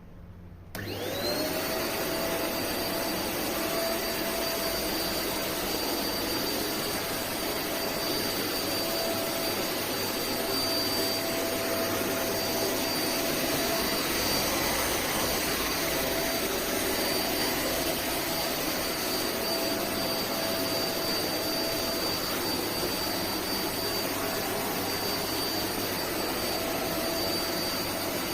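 Deerma DX700S handheld cyclone vacuum cleaner switched on about a second in, its motor spinning up with a quickly rising whine. It then runs steadily, a high whine over a rush of air.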